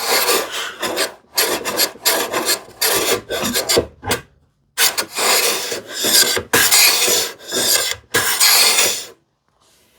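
A freshly sharpened low-angle hand plane taking strokes across the end grain of a wooden panel edge, about eight or nine short hissing passes with a brief pause midway.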